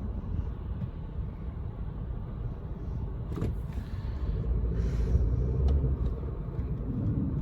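Inside the cabin of a 2017 Nissan with a CVT while driving: steady low engine and road rumble, with a short click about three and a half seconds in and a brief swell of noise about five seconds in.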